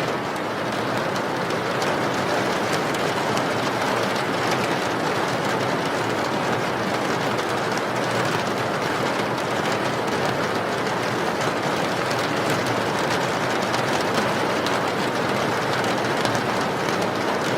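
Steady rain: a dense, even hiss with faint scattered drop ticks.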